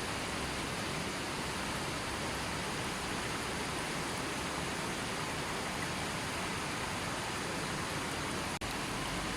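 Gentle river flowing steadily, an even rush of water, broken once by a split-second drop in sound near the end.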